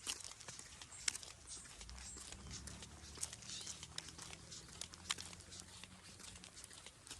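Scattered clicks and crunches of footsteps on a trail, the sharpest about a second in and about five seconds in, over a faint hiss. A low hum comes in about two seconds in and fades out after six seconds.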